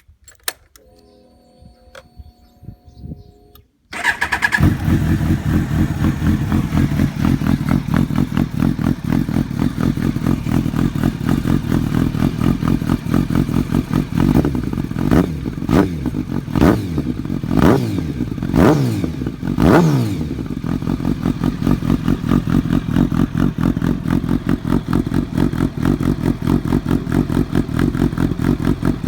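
Kawasaki ZX-12R inline-four starting about four seconds in through a loud aftermarket conical titanium silencer and titanium header pipes, then idling with a steady, lumpy beat. In the middle the throttle is blipped about five times, the revs shooting up and dropping back each time, before it settles back to idle.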